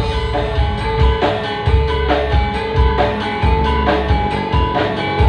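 Campursari band playing an instrumental passage: a steady drum beat at about two strokes a second under held melodic notes.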